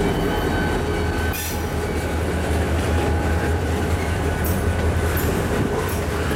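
Norfolk Southern manifest freight train rolling past at close range: the trailing diesel locomotive goes by, then tank and covered hopper cars, with a steady low rumble. Sharp metallic clicks from the wheels on the rails come several times.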